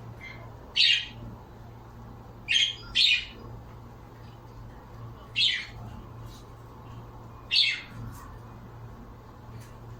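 A pet bird giving five short, loud calls, a single one about a second in, a quick pair near the middle, then two more spaced a couple of seconds apart, over a steady low hum.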